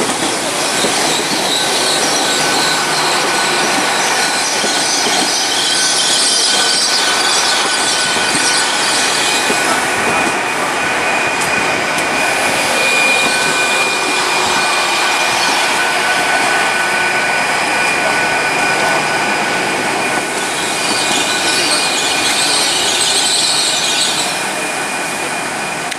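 Train moving along the rails, its wheels squealing in steady high-pitched tones, with surges of hiss a couple of seconds in and again near the end.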